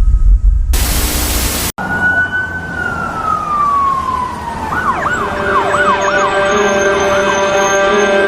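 Low vehicle rumble with a loud burst of hiss, then after a sudden cut an emergency-vehicle siren: one long falling wail, then a rapid yelp of about three sweeps a second over steady held tones.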